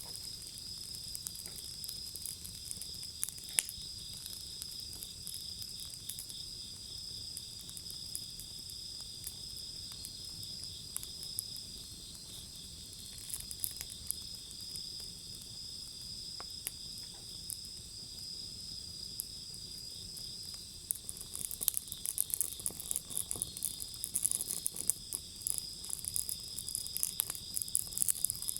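Wood fire crackling with scattered pops, the crackles growing much busier about two thirds of the way through, over a steady high-pitched insect trill.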